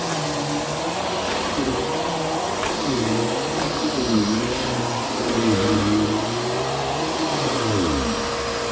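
Vacuum cleaner running, its motor pitch repeatedly dipping and rising as the airflow through the nozzle changes.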